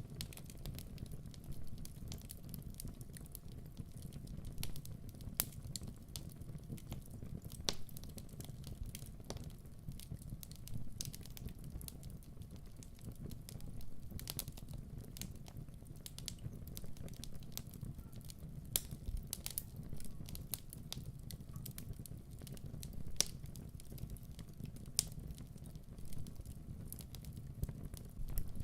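Fire crackling in a fireplace: a steady low rumble of flames with scattered sharp pops and snaps all through.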